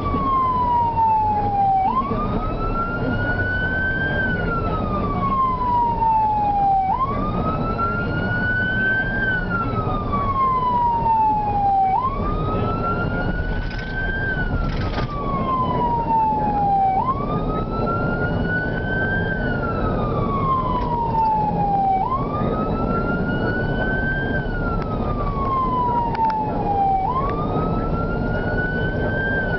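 Electronic wail siren of a responding fire department vehicle, sweeping quickly up and then slowly down about every five seconds, over steady engine and road noise.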